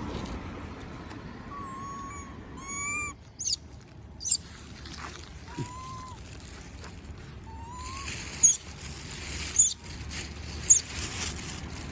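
Monkey making short, thin whimpering coo calls, a plaintive begging sound, several times, mixed with sharp high-pitched squeaks, the loudest of which come near the end.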